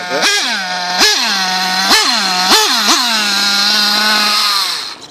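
Small nitro engine of a Losi 8ight 2.0 truggy, an RB .21 race engine, revved in five quick throttle blips, each rising sharply and dropping back. It then holds a steady high-pitched note and falls away sharply near the end.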